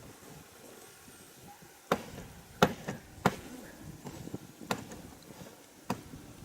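Five sharp chopping blows at irregular intervals of about a second.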